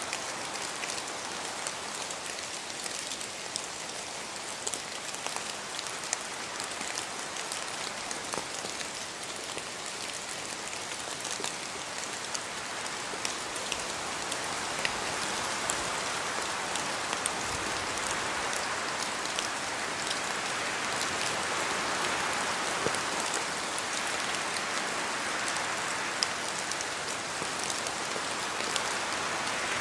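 Rain falling in a forest, with many separate drops pattering from the trees, under a steady wash of rain and wind. The wash grows louder from about halfway through.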